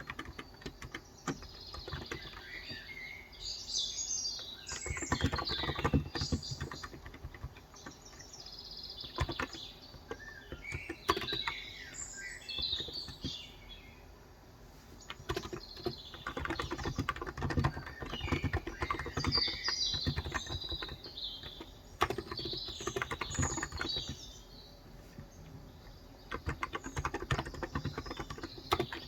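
Typing on a Cox Endeavor tenkeyless keyboard with 35 g capacitive (non-contact) switches, in runs of keystrokes broken by short pauses. Birds chirp on and off throughout.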